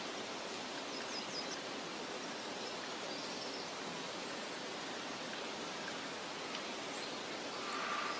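Outdoor meadow ambience: a steady, soft, even hiss, with a few faint, quick, high bird chirps about a second in.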